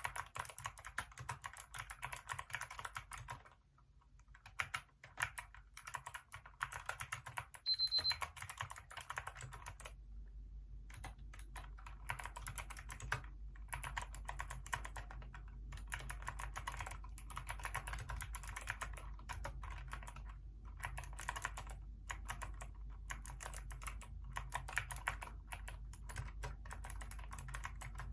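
Hacker K611 keyboard with Kailh optical switches being typed on in quick, continuous runs of key clicks, with short pauses about three and a half and ten seconds in.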